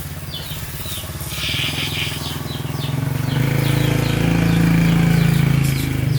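A small engine running, getting louder about three seconds in, with birds chirping repeatedly over it.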